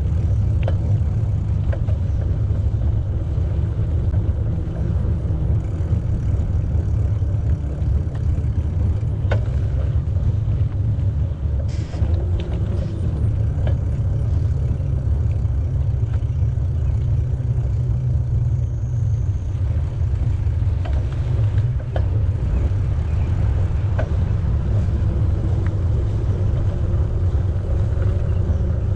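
Wind buffeting the microphone of a camera on a moving bicycle: a steady low rumble, with a few light clicks.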